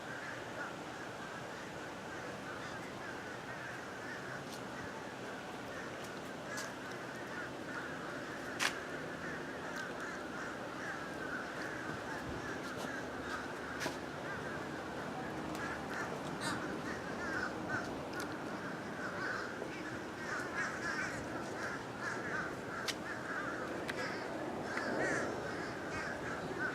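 A large flock of birds calling and chattering without pause, growing a little louder toward the end, with a few sharp clicks along the way.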